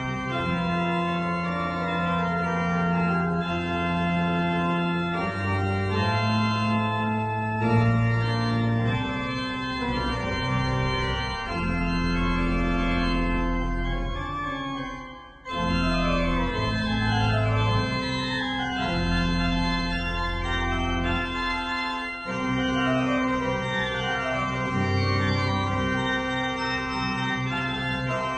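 Organ music: held low bass notes change every few seconds beneath sustained chords, with quick descending runs of notes in the upper voices during the second half. The music drops out briefly about halfway through, then resumes.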